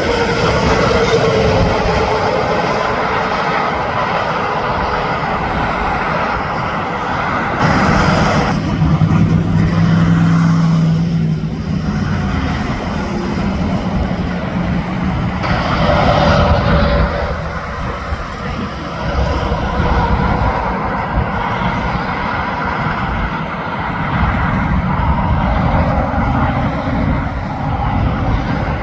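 Interstate highway traffic passing: a steady roar of tyres and engines from tractor-trailers and cars, with one truck's low engine drone standing out about ten seconds in.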